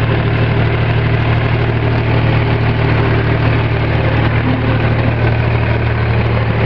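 Farm tractor engine running steadily at an even speed, a constant low drone heard close up.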